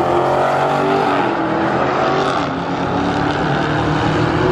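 Dodge Challenger SRT Demon's supercharged V8 engine at full throttle, accelerating down the quarter-mile drag strip on a hard pass.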